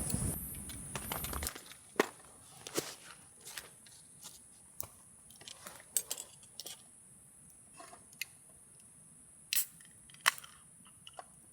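Irregular sharp clicks and crackles, a second or so apart, over a steady high-pitched drone of insects. A louder rushing noise stops about a second and a half in.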